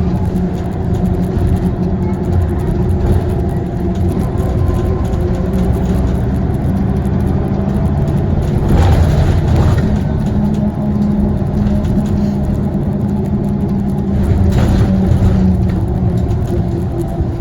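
Scania CL94UB OmniLink city bus under way, heard from inside the cabin: its diesel engine and ZF automatic gearbox running steadily, with the engine pitch shifting up about halfway through.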